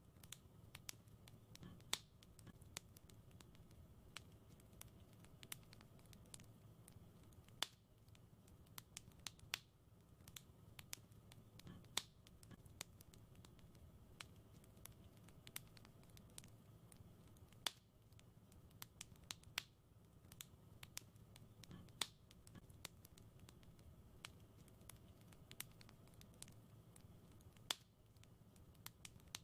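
Wood fire crackling: irregular sharp pops and snaps, a handful of them louder, over a faint low rumble.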